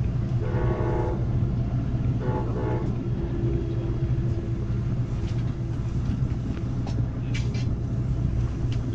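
Passenger train running, heard from inside the car as a steady low rumble. The horn sounds in a few blasts during the first half, the last one fainter and held, with a few light clicks from the rails later on.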